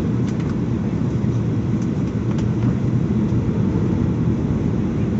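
Steady roar of a jet airliner's engines and airflow, heard from inside the passenger cabin.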